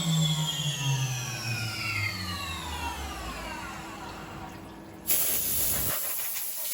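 SYIL X7 CNC mill spindle winding down, its whine falling steadily in pitch and fading over about five seconds. About five seconds in, a loud hiss starts suddenly.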